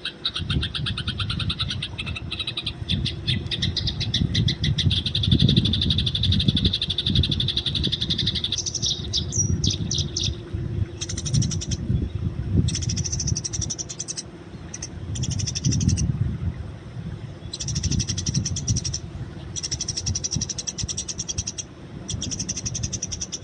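Eurasian tree sparrows chirping: a fast, dense chatter for the first eight seconds or so, then separate bursts of higher chirps, with a low rumble underneath.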